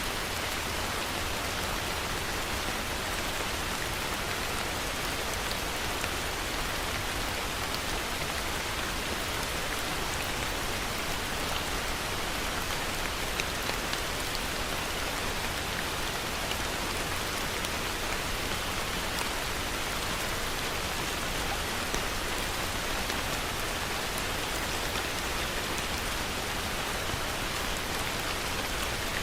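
Heavy rain falling steadily: an even hiss with scattered sharp drop ticks and a low rumble underneath.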